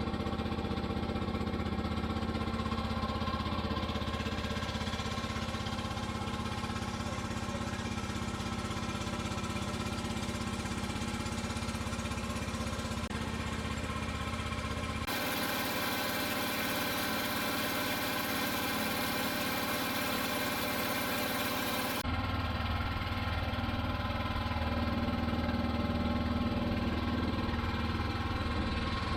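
Boat engine running steadily, a constant droning hum. For several seconds past the middle the low hum drops back and a brighter hiss takes over, then the hum returns.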